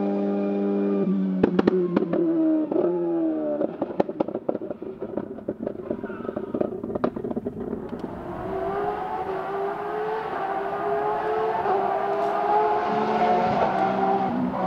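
Rally car engine coming off the throttle about a second in, with a string of sharp exhaust pops and bangs as the revs fall. Several seconds later it accelerates away, the engine note climbing steadily.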